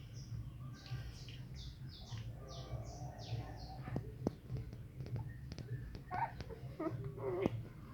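Siberian husky puppies squeaking and whimpering: a run of quick, high-pitched squeaks for the first few seconds, then scattered clicks and a few short, lower whimpers near the end.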